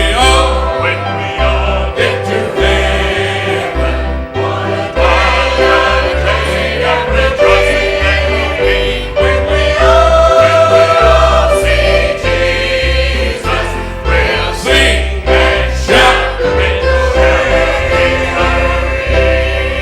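A group of voices singing a gospel hymn together with instrumental accompaniment, a bass line stepping from note to note underneath.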